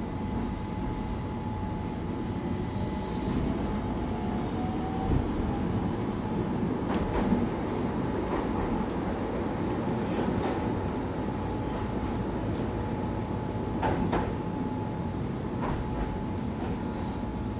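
Keihan 800 series train running along street track, heard from inside the front of the car: a steady rumble of wheels on rail with a faint steady tone. A few sharp clicks come through during the run.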